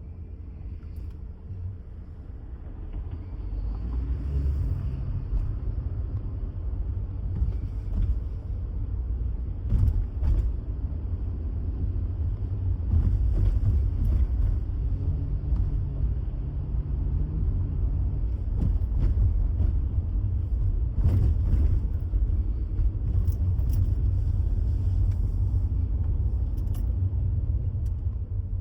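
Motor vehicle on the move: a steady low rumble of engine and road noise that grows louder about three seconds in and holds.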